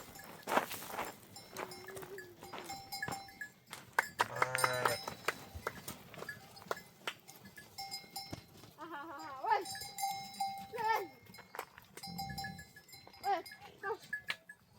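Bells on grazing sheep and goats clinking and ringing, with a flock bleating now and then, one clear bleat about four seconds in and more calls after nine seconds.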